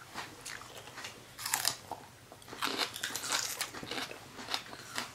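Crunchy bites and chewing of raw green bell pepper slices close to the microphone, a series of irregular crisp crunches.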